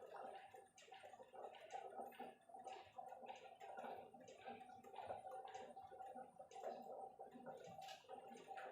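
Faint rhythmic rubbing strokes, about two to three a second, from cleaning the inside of an engine's cylinder liner.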